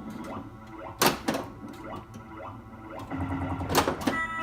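Mr and Mrs Pac-Man pinball machine in play, its prototype Squawk & Talk sound board playing a repeating background of short rising electronic sweeps through the machine's speaker. Two sharp knocks come about a second in and near the end, and a buzzing electronic sound effect starts about three seconds in.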